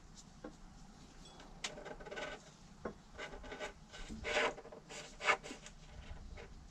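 Scattered rubbing, scraping and light clicks from hands handling and moving things, in short irregular bursts; the loudest come a little past the middle.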